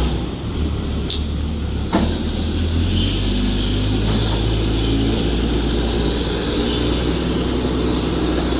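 Steady low machine hum, with two sharp clicks about one and two seconds in.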